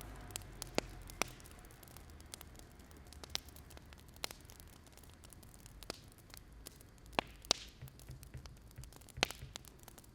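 Wood fire crackling: scattered, irregular sharp pops over a faint low hiss.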